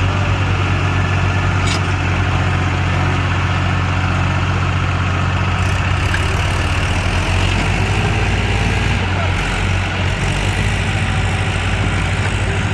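Diesel engine running steadily with a deep, even hum.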